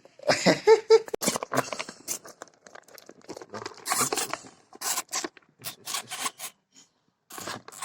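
Irregular rustling and scratching: a quick, uneven run of short scrapes and crinkles, with a brief lull near the end before it picks up again.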